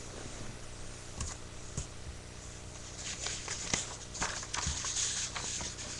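A sheet of paper rustling and crinkling as it is handled and folded: a few scattered crackles, then a busier stretch of crinkling in the second half.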